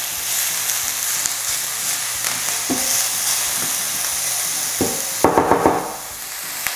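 Chopped onion and garlic sizzling in hot oil in a frying pan while a spatula stirs them. There are a few light scrapes, and a quick run of louder clicks a little after five seconds in.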